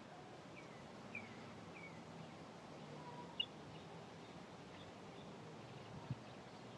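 Quiet garden ambience with faint, short bird chirps: three quick falling chirps in the first two seconds and another about three and a half seconds in.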